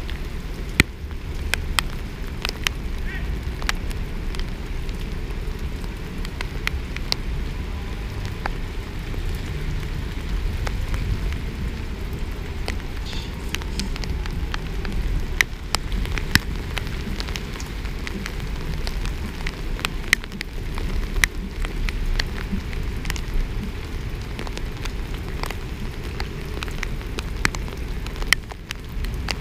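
Heavy rain: a steady low rush with raindrops striking the camera in sharp, irregular taps.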